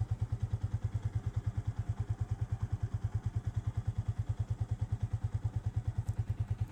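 Motorcycle engine running steadily, with an even, rapid low beat of about ten pulses a second.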